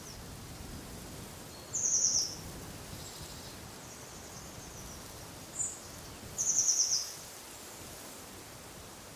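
Songbird giving two short, high, rapid trilled calls, about two seconds in and again near seven seconds, with a brief single chirp just before the second, over a steady wash of wind noise.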